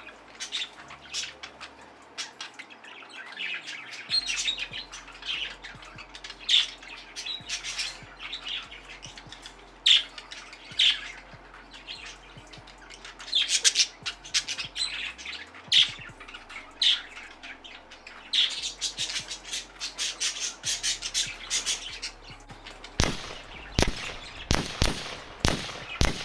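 Budgerigars chirping and squawking in short, sharp calls, mixed with the begging cries of budgie chicks. Near the end comes a run of loud, sharp clicks.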